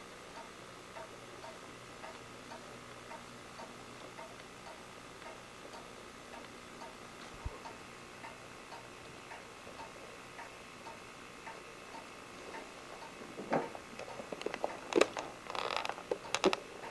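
Steady, even ticking, about three ticks every two seconds. Near the end comes a run of louder clicks and knocks, the loudest sounds.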